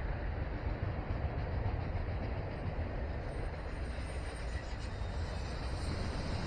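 Freight cars of a passing train rolling by: a steady rumble.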